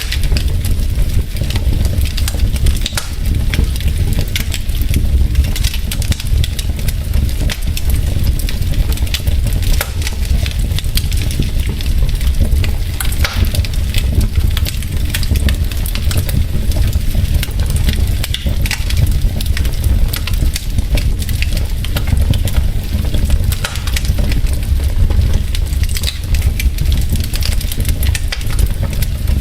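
Wood logs burning in a fireplace: continuous crackling with many small, sharp pops over a steady low rumble of the fire.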